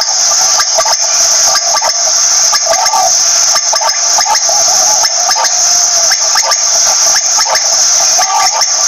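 Quail calling: short clipped notes repeated a few times a second, over a steady high-pitched hiss.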